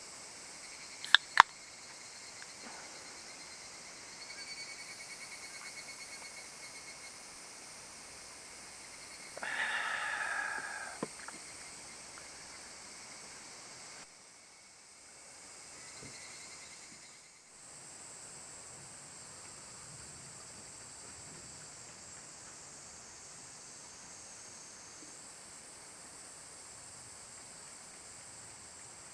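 Outdoor forest ambience with a steady high insect-like hiss. Two sharp clicks come about a second in, a short pulsed trill a few seconds later, and a brief burst of noise with a click after it near the middle.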